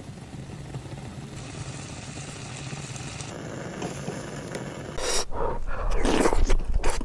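A faint steady hiss, then, about five seconds in, loud irregular eating sounds close to the microphone: biting and chewing.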